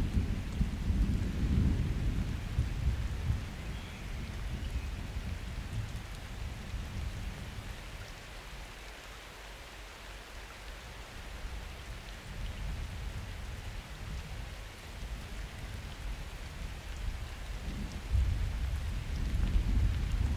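Steady rain falling through a summer thunderstorm, with low rolling thunder that fades away over the first several seconds and a fresh rumble of thunder building near the end.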